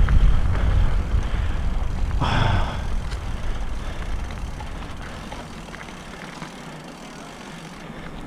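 Mountain bike riding on a dirt trail: wind rumbling on the camera microphone with rattle and tyre noise from the bike, dying down over the second half. A brief scraping hiss comes about two seconds in.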